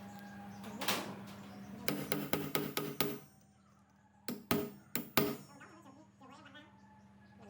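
Metal parts being knocked and clinked together: a quick run of light taps, a short pause, then four separate sharp strikes.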